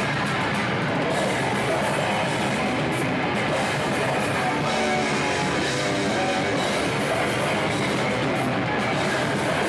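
Metalcore band playing live: loud distorted electric guitars and a drum kit in a dense, unbroken wall of sound.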